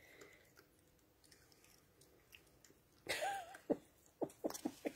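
Koala gnawing on a wooden tree fork, a run of sharp crunching clicks, about three or four a second, starting a little past halfway, after a brief wavering tone.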